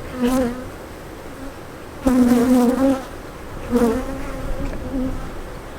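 Honeybees buzzing around an opened hive, the buzz swelling loud several times as bees fly close past the microphone. The colony is agitated after heavy smoking and is queenless.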